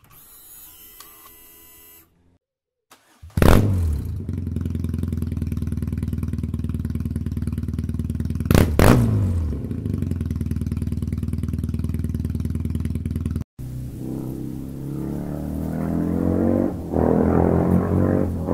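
BMW R nineT's 1170 cc air/oil-cooled boxer twin, fitted with a Wunderlich exhaust, starting up a few seconds in with a quick rev, then idling steadily with one sharp throttle blip midway. After a sudden cut about two-thirds through, a different droning sound with shifting, rising pitch follows.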